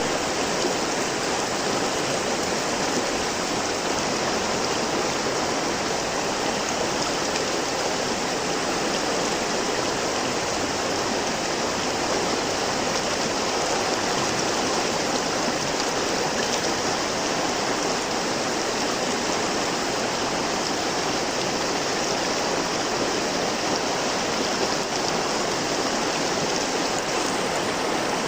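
River water flowing and rushing over rocks in a steady, even stream, with no change throughout.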